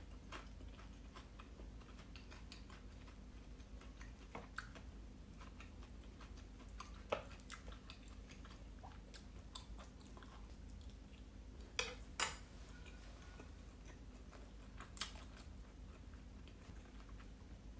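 A person chewing steamed siomai dumplings close to the microphone: soft mouth sounds and small clicks, with a few louder sharp clicks, the loudest two close together about twelve seconds in, over a faint steady hum.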